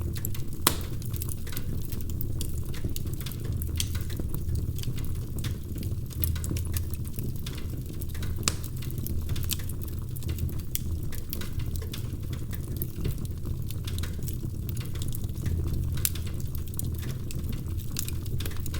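Wood fire crackling, with frequent irregular sharp pops and snaps over a steady low rumble of the burning logs.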